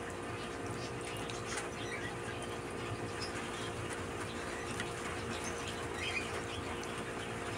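Quiet background with a steady faint hum and a few faint bird chirps, about three over several seconds.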